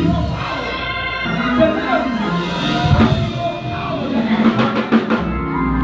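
Live church band music with a drum kit playing, its hits sharp around the middle, over sustained keyboard or organ chords and bass.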